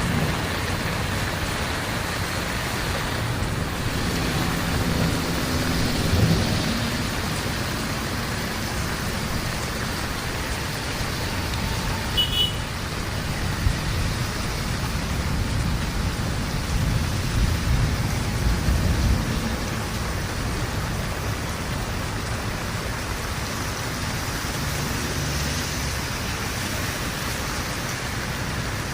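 Heavy rain falling steadily, a dense even hiss. Low rumbles swell up about six seconds in and again past the middle.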